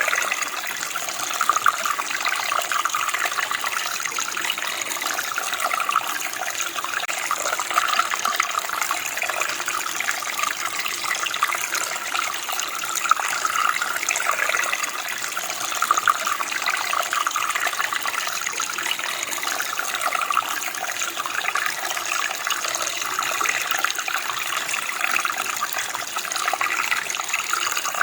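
Running water, a steady splashing and burbling flow over stones in a small stream.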